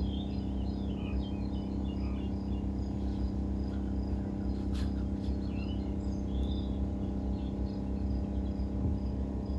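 Insects chirping in a steady, even pulse, with scattered bird chirps, over a steady low hum.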